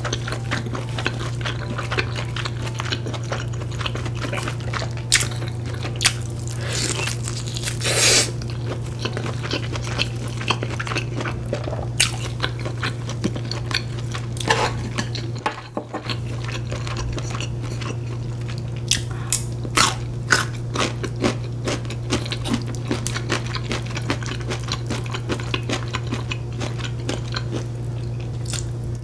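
Close-miked chewing and biting of smoked pork, with wet mouth clicks and a few louder smacks, over a steady low hum.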